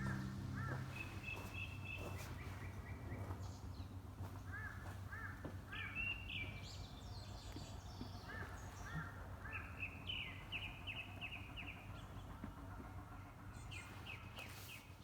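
Wild birds singing: several short runs of repeated chirping notes and a few higher, quicker trills, over a steady low background rumble.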